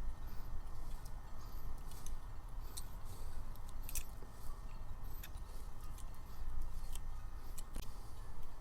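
Scattered small metallic clicks and clinks of slow hand-tool work on a metal part, over a steady low hum.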